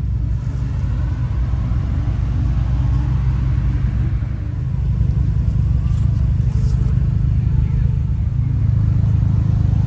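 A car engine running at a steady idle with a deep, low rumble.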